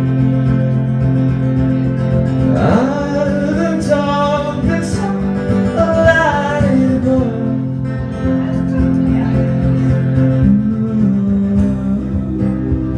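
Live rock band playing: held guitar and keyboard chords over bass. A gliding melodic line comes in over them from about two and a half seconds in to about seven seconds.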